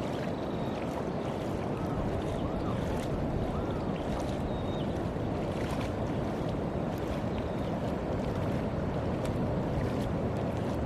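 Steady outdoor rush of water and wind, with faint brief chirps now and then.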